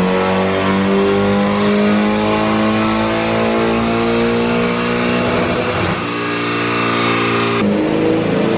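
Turbocharged engine of a 1989 Nissan 240SX pulling under load on a chassis dyno, its pitch climbing steadily for about six seconds as the revs rise. The sound changes abruptly twice toward the end.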